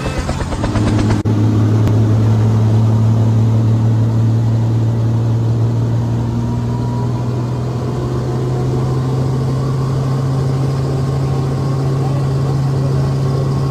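An engine running steadily with a low, even hum, broken by a sudden cut about a second in.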